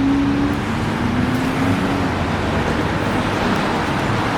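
Steady road traffic noise, with a faint hum that comes and goes in the first two seconds.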